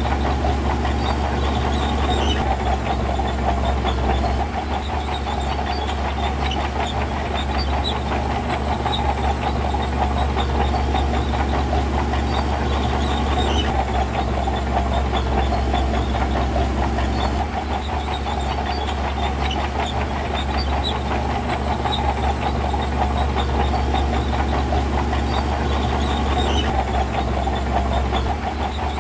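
Heavy diesel earthmoving machinery running steadily under load, a deep engine hum with a dense rattle of small ticks over it.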